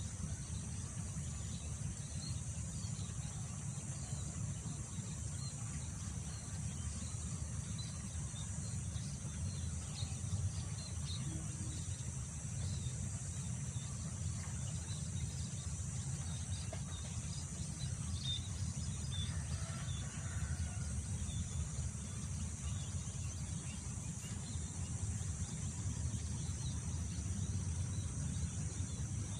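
Wind buffeting the microphone in a steady low rush, under a continuous high-pitched insect chorus of crickets or similar, with scattered faint bird chirps.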